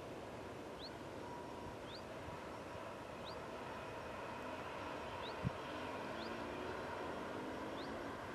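Distant SNCF TER passenger train passing, a faint steady rumble that grows a little, with a low hum in the second half. A bird gives a short rising chirp about once a second throughout, and there is a single knock about halfway through.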